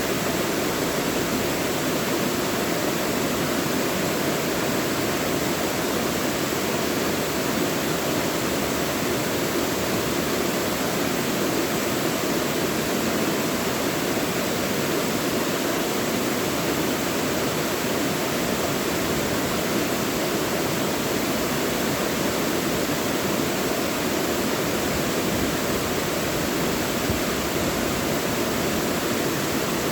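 Mountain valley stream, water rushing and splashing over rocks in a steady, continuous flow.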